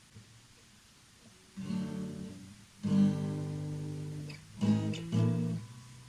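Acoustic guitar: four chords strummed one at a time, each left to ring and fade, with short gaps between them.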